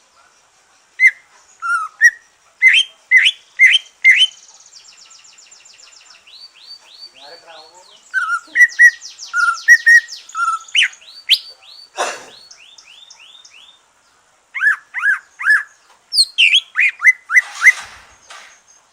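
Cucak ijo (greater green leafbird) singing after its moult: loud, clear whistled notes in quick runs of three to six, with fainter, very fast high trills between the runs.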